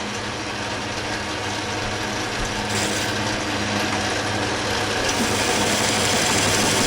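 Lathe running with the cutting bit taking a pass along scrap stock, a steady hum under a rough cutting noise that grows slowly louder. The piece is being turned round, its flat spots still being cut away.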